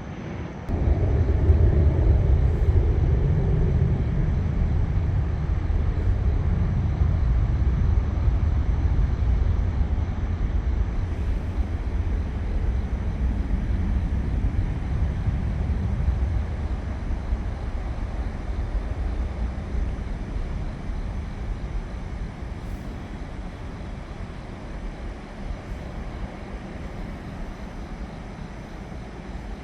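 Low rumble of an airplane passing, coming in suddenly about a second in and slowly fading away.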